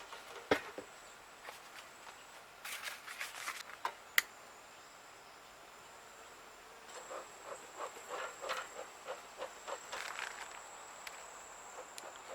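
A cricket trills steadily in a high, thin tone. Over it, handling noise: a sharp click about half a second in and another about four seconds in, and bouts of rustling with light knocks.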